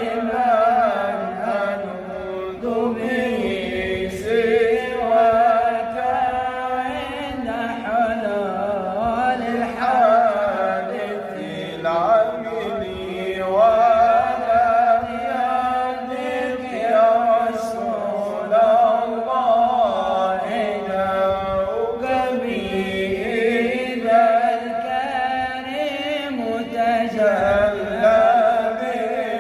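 Male voice chanting an Islamic devotional ode (inshad) in long, ornamented melismatic phrases, the pitch wavering and sliding on held vowels.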